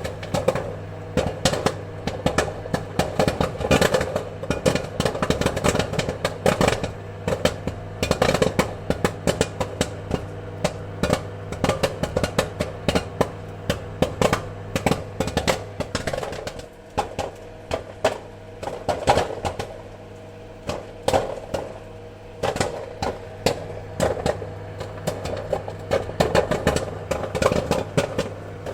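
Popcorn kernels popping in quick, irregular sharp pops, thinning out for a few seconds about two-thirds of the way through, over a steady low machine hum.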